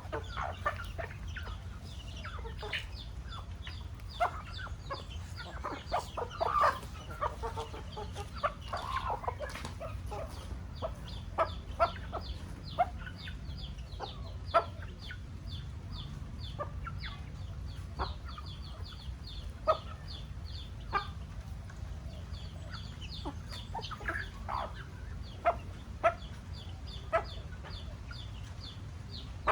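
Chickens clucking and calling, with many short high calls, a few longer louder calls between about six and nine seconds in, and sharp clicks now and then over a steady low hum.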